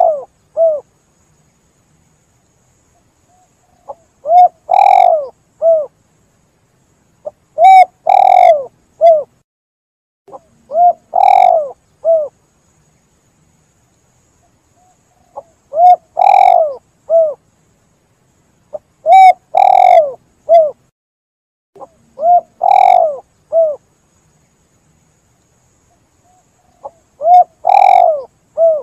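Spotted dove (tekukur) cooing: each phrase is a short note, a longer, louder coo and another short note. The phrase is repeated about eight times, with pauses of a few seconds between.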